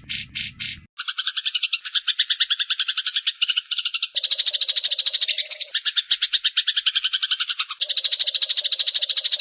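Songbird tutor recording: a fast trill of sharply repeated high notes, about ten a second. The pattern changes abruptly every second or two as different trilling sections follow one another.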